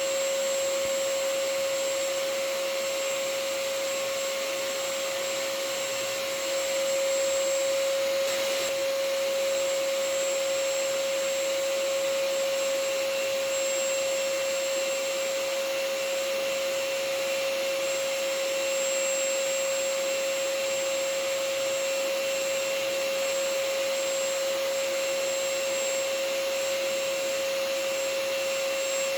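Vacuum cleaner running steadily, a constant rushing noise with a steady high whine from its motor, used as continuous white noise.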